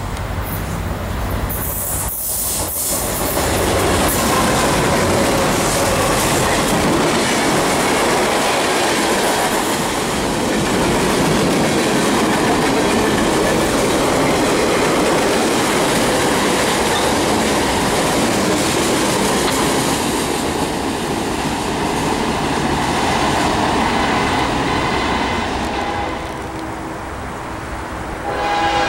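CSX freight train passing close by: a steady, loud rumble and clatter of wagon wheels on the rails as the boxcars roll past. It eases off near the end, and a locomotive horn begins just as it ends.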